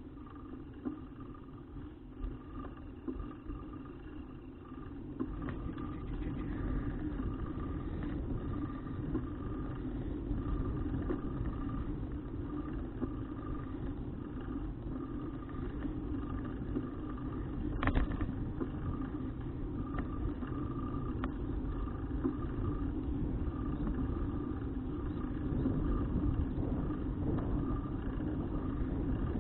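Steady road rumble and wind of a moving bicycle picked up by an action camera, growing louder about five seconds in, with one sharp click past the middle.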